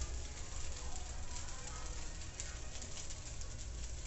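Egg fried rice sizzling in a frying pan over a gas burner, a steady crackle with scattered small pops, left to fry a little longer so the rice dries out.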